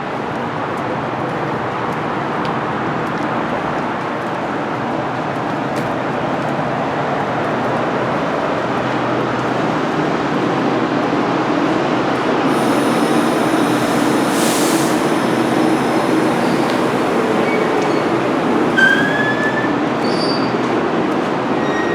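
GO Transit commuter train running on the rails, a steady rumble that slowly grows louder. Several brief high-pitched wheel squeals come in the second half.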